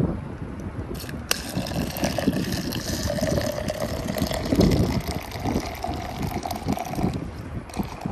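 Liquid being poured into a container for about six seconds, with wind buffeting the microphone throughout.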